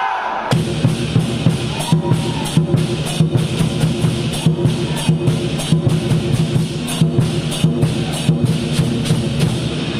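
Lion dance percussion: a large drum beating a fast, steady rhythm with clashing cymbals and gong, cutting in suddenly about half a second in.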